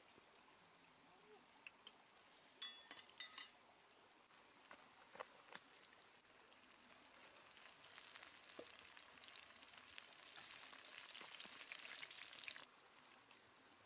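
Cauliflower and red bell pepper frying in oil in a clay pan over a wood fire: a faint sizzle with small crackles that builds over the second half and cuts off suddenly near the end. A few seconds in, a utensil scrapes and clicks against the pan as the vegetables are stirred.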